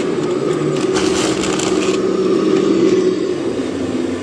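Radio-controlled scale model truck running with a steady mechanical hum, with a brief crunching scrape about a second in.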